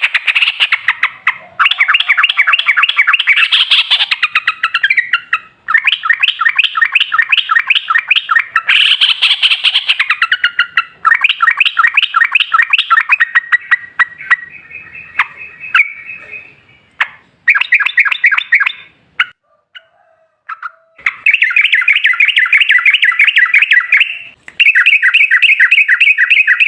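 Yellow-vented bulbul (trucukan) singing long, rapid runs of repeated chattering notes, several bursts of a few seconds each with short breaks between them.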